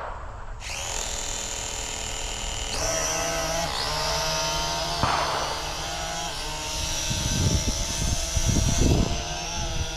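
Small cheap quadcopter drone's electric motors and propellers spinning up about half a second in and running with a high, many-toned whine whose pitch steps up and shifts as it is flown. Low rumbles of air hit the microphone near the end.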